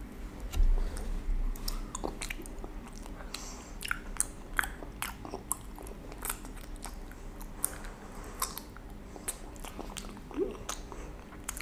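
A child chewing soft chocolate mochi close to the microphone: wet lip smacks and short mouth clicks, with a low thump about half a second in.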